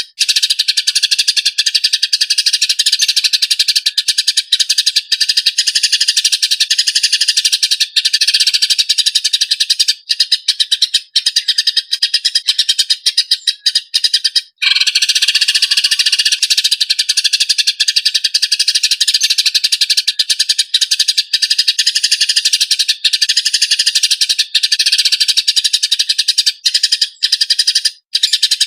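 Eurasian tree sparrow fighting calls: fast, tightly packed, harsh chirps in a continuous stream, with a brief break about halfway through.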